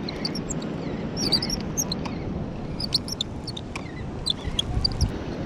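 Birds chirping in short, high, irregular calls over a steady low rumble.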